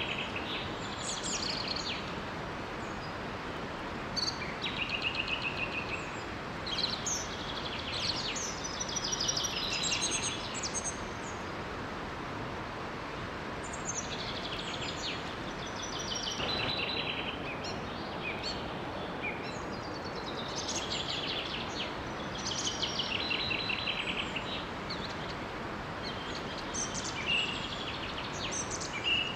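Several songbirds singing in repeated chirping phrases that come and go, over the steady rush of a small waterfall.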